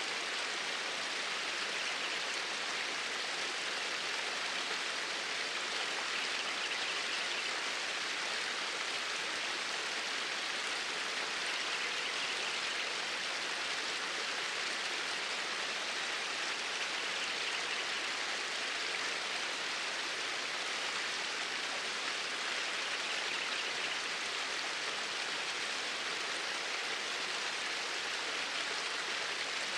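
Flowing water in a stream, a steady, even rush with no change in level.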